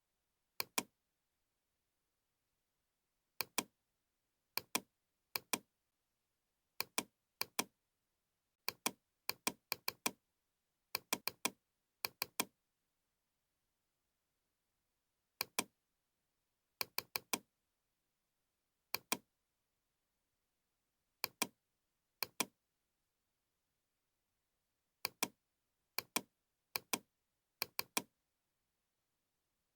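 Computer mouse clicks, mostly in quick pairs, at irregular intervals of one to three seconds, with dead silence between.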